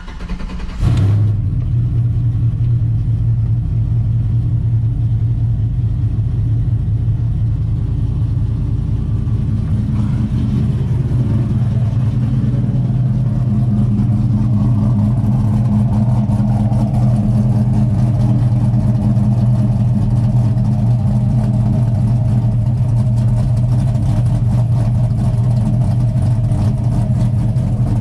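A 6.2-litre L92 V8 fitted with a Texas Speed LS3 Stage 2 cam, cranked over by the starter and catching about a second in, then idling steadily with a choppy cam lope.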